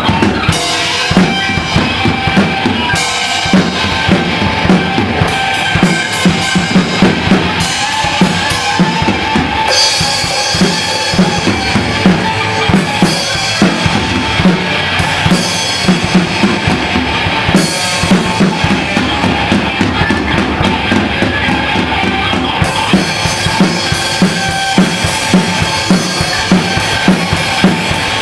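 Music driven by a drum kit, with bass drum and snare keeping a steady beat and cymbals washing over it.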